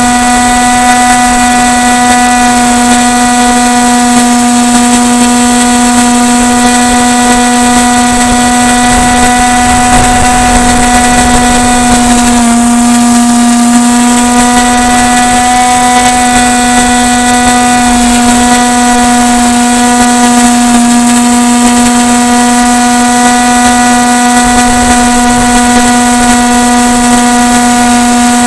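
Battery-powered electric motor and propeller of an FPV model plane running at a steady cruise, a constant high drone with a slight dip in pitch about twelve seconds in.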